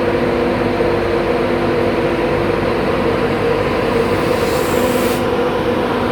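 Train at the station: a steady, loud engine drone with a humming tone that fades about halfway through, and a short high hiss about four and a half seconds in.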